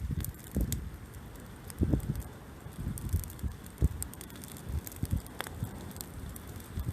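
Bonfire of pruned kiwi vines crackling, with scattered sharp pops and irregular low thuds.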